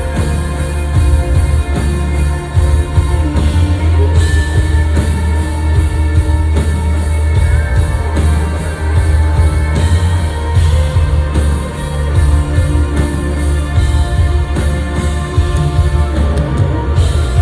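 Loud live band music: amplified pop-rock with a heavy bass line and full band accompaniment.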